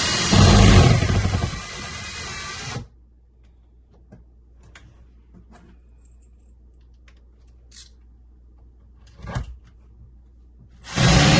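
Power tool running in two bursts, starting and stopping abruptly, with light knocks and handling clicks in the quiet stretch between them.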